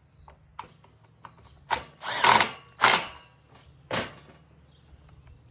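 Screws being tightened on a Stihl FS 45 string trimmer during its rebuild: a series of sharp clicks and knocks from the tool and the plastic housing, with a short scraping rasp about two seconds in.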